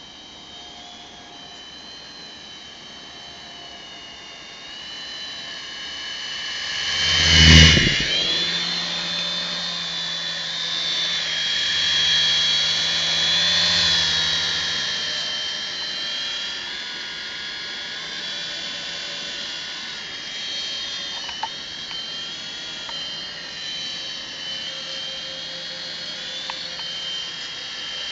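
Small toy RC helicopter's electric motor and rotors whining steadily in flight. The whine swells to its loudest about seven seconds in, then holds with small wavers in pitch.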